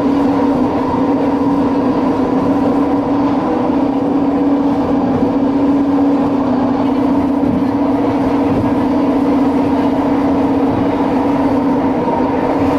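Train running at a steady speed: a loud, even hum with a fixed droning tone and higher whines that hold the same pitch throughout.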